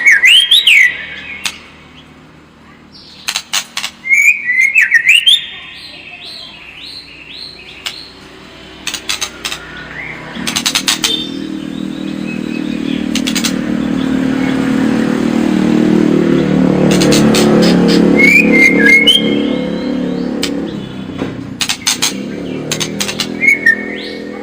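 White-rumped shama (murai batu) singing a lure song: short rising whistled phrases alternating with bursts of rapid clicking rattles, the kind of combative song played to provoke a caged shama. Underneath, a low rumble swells from about ten seconds in, peaks near eighteen seconds, then fades.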